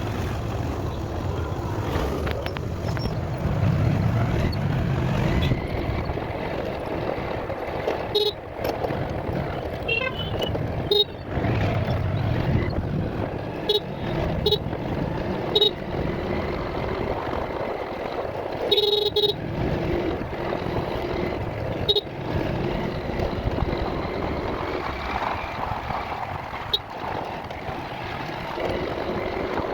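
Riding sound from a motorbike in road traffic: a steady engine and wind rush, broken by about eight short horn honks, one of them longer past the middle.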